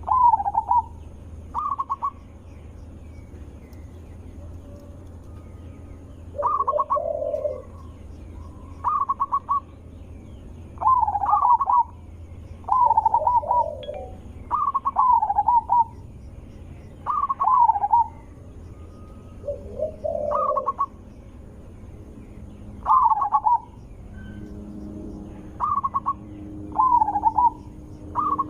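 Zebra dove (perkutut) cooing: short rolling phrases repeated about once every two seconds, after a pause of a few seconds near the start.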